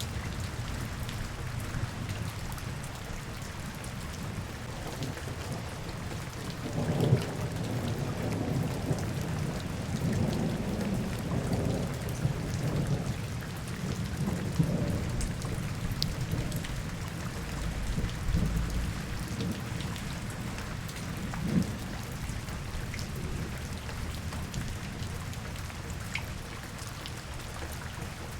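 Steady rain falling, with a long low rumble of thunder that swells about seven seconds in, rolls on in several surges and dies away after about fifteen seconds.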